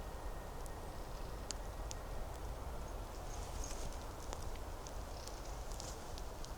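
Footsteps on the forest floor: scattered sharp cracks and crackles of twigs and dry leaves underfoot, over a steady low rumble.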